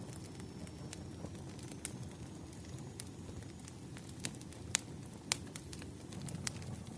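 Wood campfire burning: a steady low rumble of flames with irregular sharp crackles and pops, two of them louder a little past the middle.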